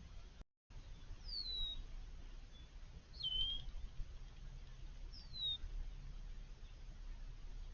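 A bird calling: three short chirps, each falling in pitch, about two seconds apart, over faint low outdoor rumble.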